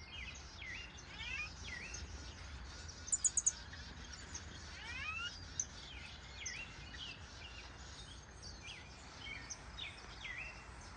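A flock of aviary finches chirping and calling: many short, high call notes scattered throughout, with a quick run of four sharp high chirps about three seconds in, the loudest sound.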